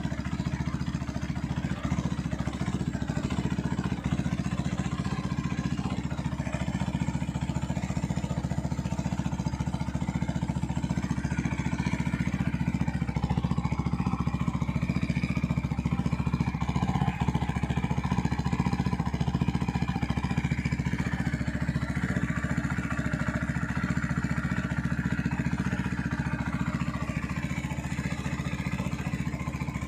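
Benelli Leoncino 250 SE single-cylinder engine running steadily through its heat-wrapped exhaust, the level holding even.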